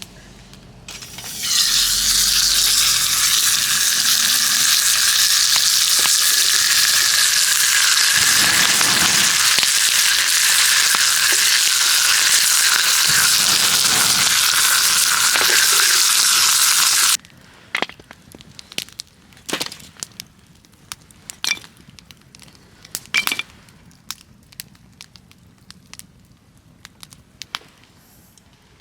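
Food frying in a hot pan over a campfire: loud, steady sizzling that starts about a second in and cuts off abruptly after about seventeen seconds. After that, only quiet scattered pops and crackles are left.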